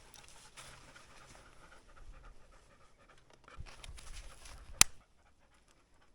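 A 13-year-old Labrador retriever panting in quick, noisy breaths, with one sharp click a little before the five-second mark, after which it goes quiet.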